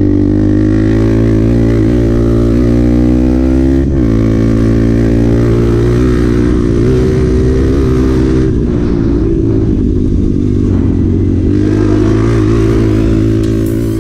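Honda Bros 125 trail bike's single-cylinder four-stroke engine running hard under throttle, its note wavering with the throttle and dipping briefly about four seconds in. Heard from the rider's position, fading away at the end.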